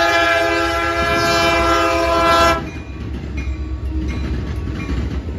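Locomotive air horn sounding one long chord that cuts off about two and a half seconds in, over the low rumble of a train, which carries on after the horn stops.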